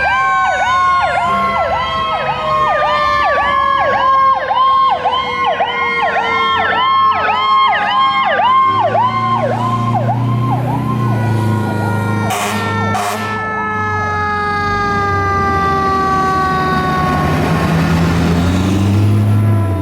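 Fire truck sirens: a rapid electronic yelp, about three sweeps a second, fades out about halfway through. Under it, a slowly falling wail winds down throughout, typical of a mechanical siren coasting down. A heavy truck engine rumbles in the second half.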